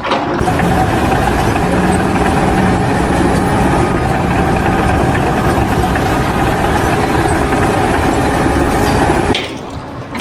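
An engine running steadily, with a faint steady whine over the engine noise; the sound drops away sharply about nine seconds in.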